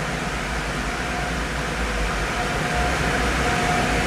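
Automatic car wash machinery running: a steady rushing noise with a low rumble and a faint thin whine.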